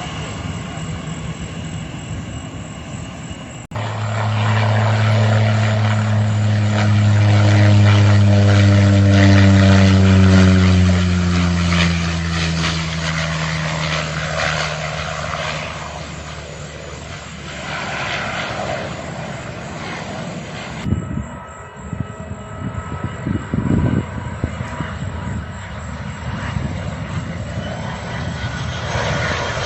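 Airliner engines running loud and close, their low steady tone sliding slowly downward in pitch as the aircraft passes, loudest about halfway through. The sound changes abruptly twice, about four seconds in and again later, to other stretches of aircraft engine noise.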